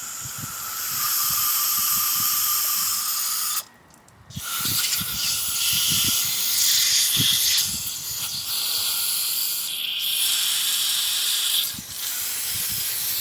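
Aerosol spray can hissing in long continuous jets onto a carburetor being cleaned, with a short break about four seconds in and a brief dip near the end.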